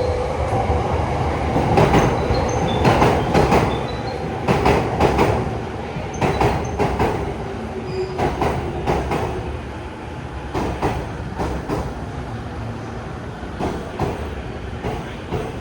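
Electric commuter train pulling into a station platform: a low rumble under the clatter of its wheels over rail joints. The clatter is loudest a few seconds in, then thins out and quietens as the train slows.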